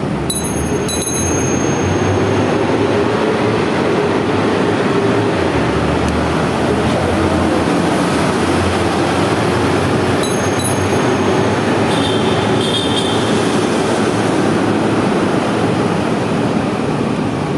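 Steady loud rush of wind and road noise from a moving bike, with a low rumble underneath. Brief high-pitched squeals come twice, about half a second in and again about ten seconds in.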